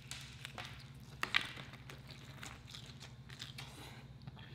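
Close-up chewing of crispy fried chicken: small wet crunches and clicks of breading and meat between the teeth, with a couple of louder crunches about a second in, over a faint steady low hum.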